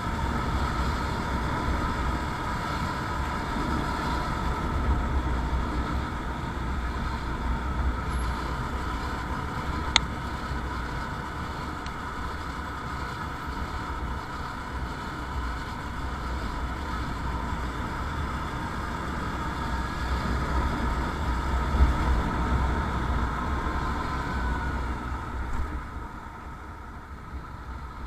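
Motorcycle on the move: steady engine and road noise with a low rumble and a constant whine, mixed with wind noise. A single sharp click comes about ten seconds in, and the noise drops off in the last couple of seconds.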